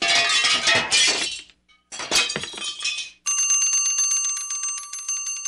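Two short noisy crashing bursts, then a bell trilling rapidly at a steady pitch for the last two seconds.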